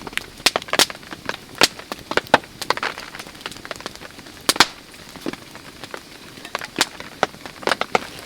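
Rain falling, with large drops tapping sharply and irregularly, a few each second, over a faint steady hiss.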